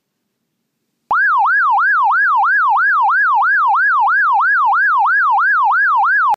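Electronic police-style siren yelping rapidly up and down, about three sweeps a second, starting about a second in and cutting off suddenly.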